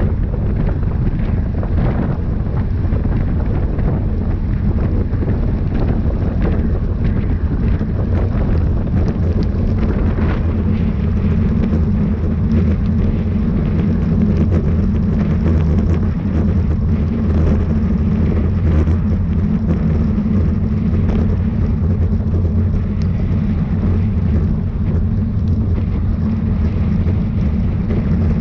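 Steady low rumble of wind buffeting the microphone of a camera carried by a rider at racing speed.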